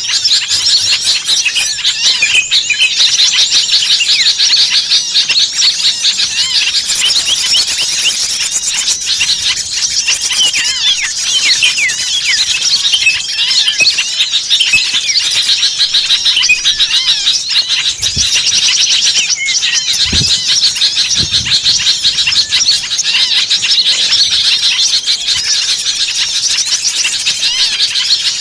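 A dense, unbroken chorus of many small songbirds chirping and twittering over one another. It is a noisy bird-lure (pikat) recording meant to draw small birds in.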